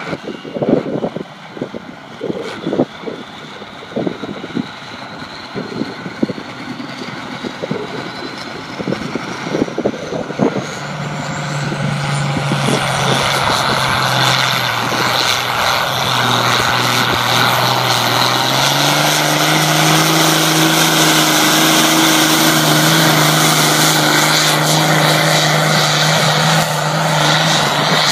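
International Harvester 1066 pulling tractor's 525-cubic-inch mechanically injected diesel working hard on a pull. It starts with uneven, loud popping, while a turbocharger whistle climbs steadily in pitch. About a third of the way in, the engine settles into a loud, steady high-rpm run, and its pitch steps up a little past the middle.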